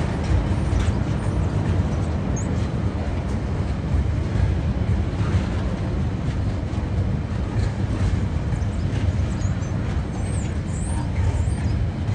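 Container wagons of a freight train rolling past as it arrives: a steady low rumble of steel wheels on rail with faint clicks.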